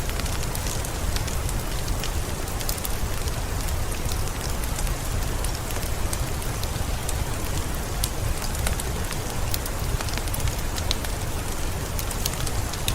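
Steady rain with a low rumble, and many short, sharp crackles scattered through it, as of a wood fire crackling in a fireplace.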